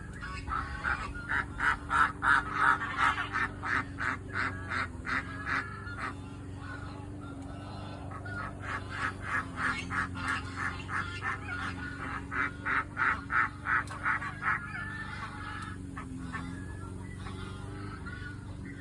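Geese honking, a rapid string of calls several a second, in three long bouts.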